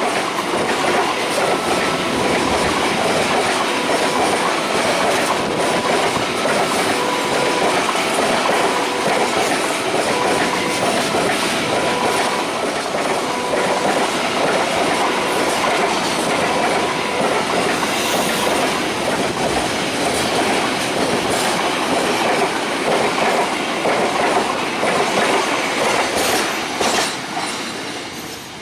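A train passing close by at speed over a level crossing: steady loud rumble and clatter of wheels on rail, with a faint high tone coming and going, which then fades in the last couple of seconds as the train moves away.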